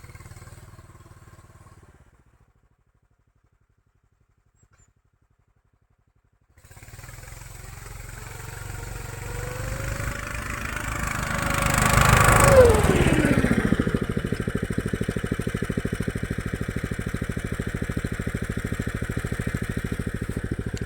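Engine of a Tofalar 500 motorized snow dog revving hard under load as it pulls itself out of a rut with its track half hanging. After a faint start and a few seconds of silence, the engine comes in suddenly about six seconds in, rises to its loudest around twelve seconds, then settles into steady running.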